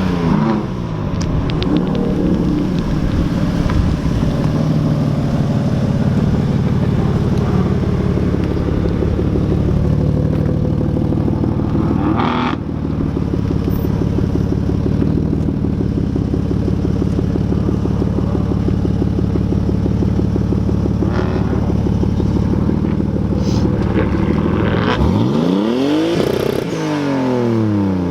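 Car engine running steadily at low revs, then revved up and let back down near the end.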